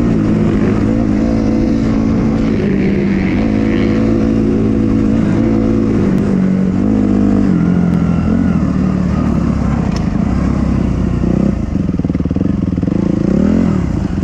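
Dirt bike engine running on the trail, its revs rising and falling again and again as the throttle is worked, with a climbing rev near the end.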